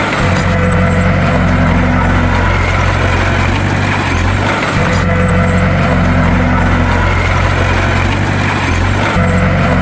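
Bulldozer's heavy diesel engine running steadily with a deep, even drone, its sound repeating in a cycle every four to five seconds.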